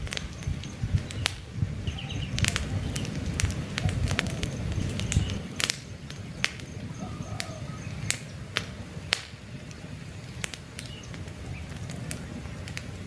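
Wood campfire crackling, with sharp irregular pops over a low steady rumble of burning, the rumble easing a little about halfway through. Birds chirp faintly in the background.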